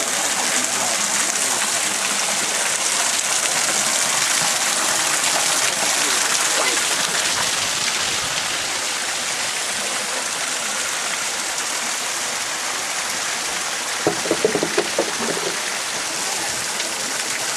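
Waterfall: a steady, continuous hiss of rushing water. A short burst of a voice is heard about fourteen seconds in.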